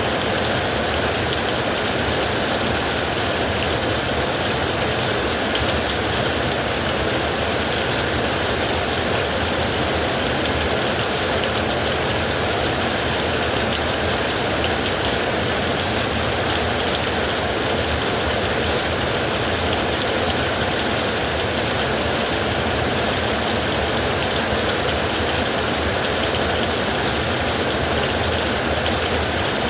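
Heavy rain pouring steadily on a roof, a dense unbroken hiss at even loudness with no thunder claps.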